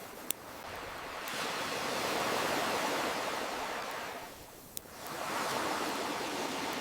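Ocean waves washing in and out: one surge builds and recedes about four and a half seconds in, and the next begins to swell near the end. Two sharp pops of a crackling campfire, one just after the start and one shortly after the wave dies down.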